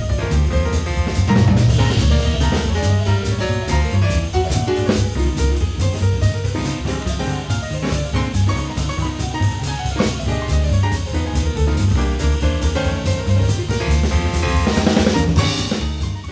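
Background music: an upbeat jazz-style instrumental with a drum kit keeping a steady beat, fading out at the very end.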